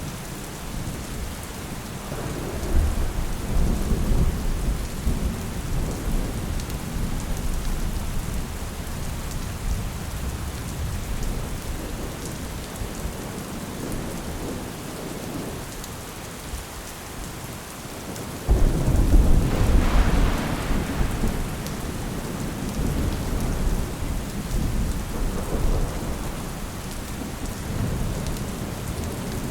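Steady rain falling, with low rolls of thunder rumbling through it. About two-thirds of the way in, a louder thunder peal starts suddenly and rumbles away over several seconds.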